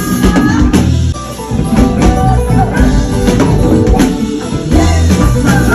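Band music at full volume: guitar over heavy bass notes with a steady drum and tambourine beat.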